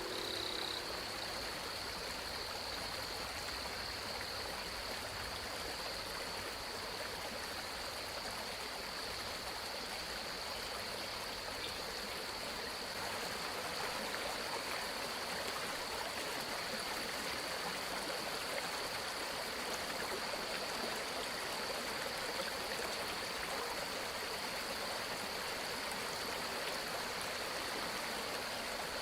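Steady rushing of running water, with a thin high tone held throughout. Chime-like tones die away about a second in.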